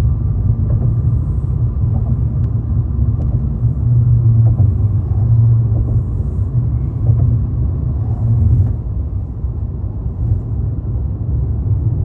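Steady low rumble of road and engine noise inside a moving car's cabin, swelling slightly in the middle.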